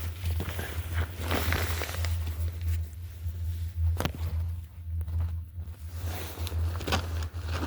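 Exhaust of a 1994 Plymouth Acclaim's 2.5-litre four-cylinder engine idling just after a cold start, heard at the tailpipe: a steady low drone, with scattered light clicks over it.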